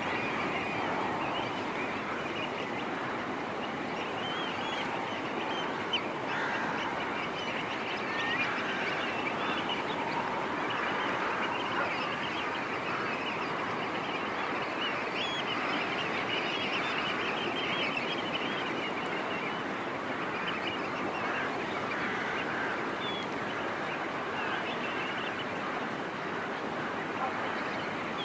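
A large flock of birds calling all at once as it takes flight: a dense, steady chorus of many overlapping cries.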